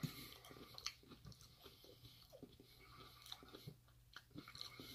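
Faint close-up chewing and mouth sounds of a person eating soft, crumbly tofu curry, with scattered small clicks, including a metal fork tapping the metal bowl near the start.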